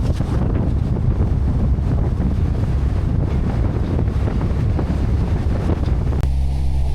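Strong wind buffeting the microphone over the rush of big waves around a sailing catamaran in heavy seas. Shortly before the end it cuts abruptly to a steady low hum.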